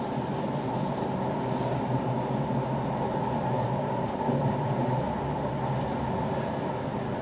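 Bernina Railway train running along the line, heard from inside the passenger coach: a steady rolling rumble of wheels and running gear with a low hum underneath.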